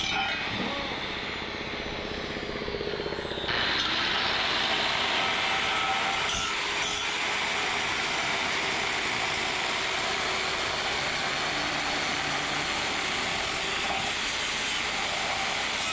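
Steady workshop power-tool noise, a harsh even hiss that abruptly gets louder and brighter about three and a half seconds in.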